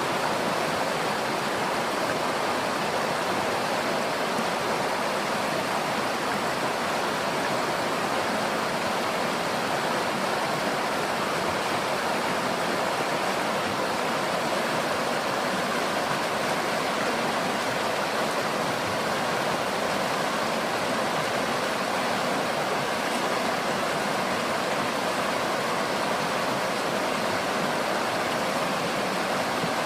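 River water flowing and rushing over stones in a steady, unbroken wash.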